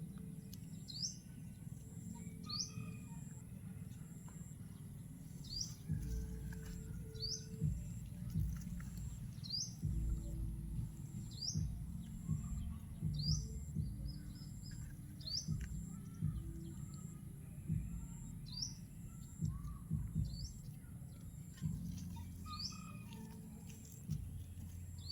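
A bird chirping, a short rising chirp repeated every second or two, over uneven low rumbling noise.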